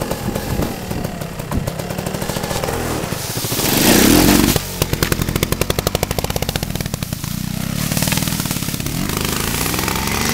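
Trials motorcycle engine running at low revs. It picks up briefly about four seconds in, then chugs in rapid distinct firing pops for a couple of seconds before settling back to a steady run.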